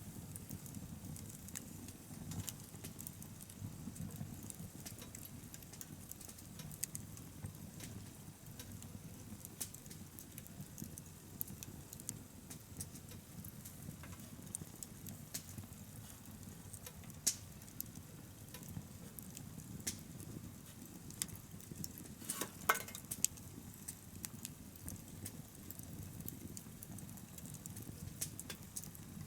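Wood bonfire burning: a steady low rumble of flames with scattered crackles and small pops throughout, and a few sharper pops about two-thirds of the way through.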